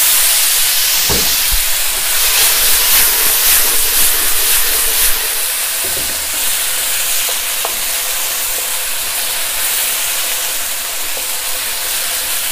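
Diced raw potatoes sizzling in hot oil in a wok on high heat while being stirred with a wooden spatula. The sizzle is loudest for the first few seconds after they go in, then settles a little, with a single knock about a second in.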